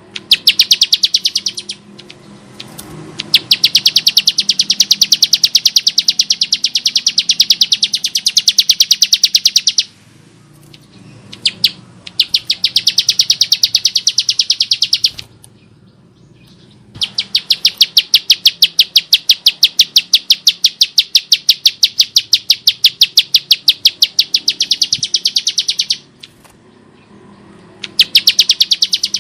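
Bar-winged prinia singing its harsh chattering song: long, fast trains of sharp, evenly repeated high notes, in four bouts of a few seconds each separated by short pauses.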